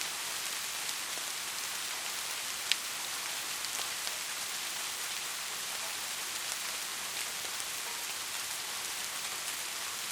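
Steady rain falling, a dense even hiss with scattered individual drops ticking, one sharper drop about a quarter of the way in. No thunder is heard.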